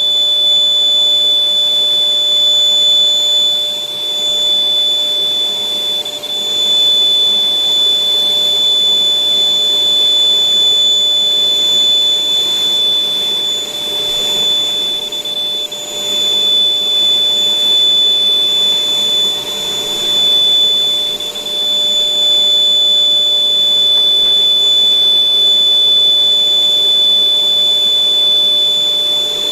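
Electric air blower running steadily with a high-pitched whine, inflating a giant balloon.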